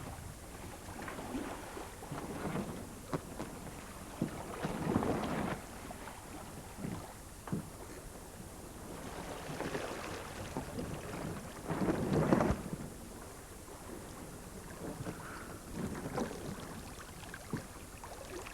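A becalmed sailing yacht at sea: water sloshing against the hull in irregular surges, the biggest about five and twelve seconds in, with a few sharp knocks between them.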